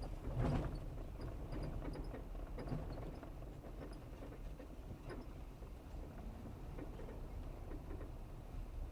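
Steady low rumble with scattered light knocks and clicks, louder in the first second, and faint high chirps over it.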